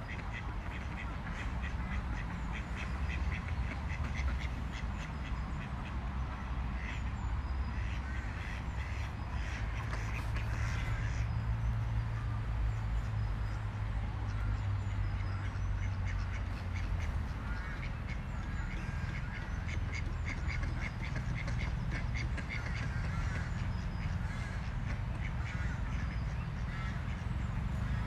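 Repeated animal calls in quick, chattering runs, over a steady low rumble.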